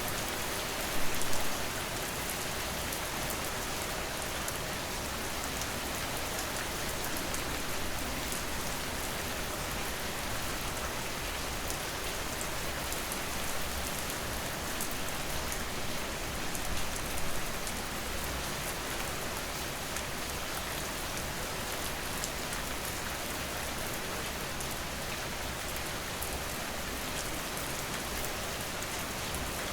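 Steady rain falling onto a surface, a dense hiss of drops with fine patter on top. It swells briefly a couple of times, about a second in and again about halfway through.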